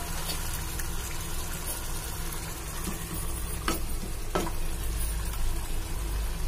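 Chicken masala sizzling and frying in a pan on high heat while cooked chana dal with bottle gourd is poured in from a steel pot, with two sharp clinks a little past the middle.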